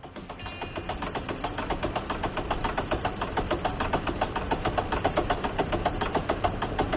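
Car engine running with a rapid, regular knocking, many knocks a second, building up over the first couple of seconds and then holding steady.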